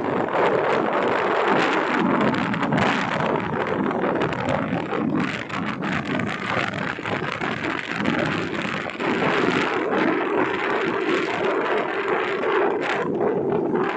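Wind buffeting the microphone: a loud, continuous rumbling rush with ragged gusts.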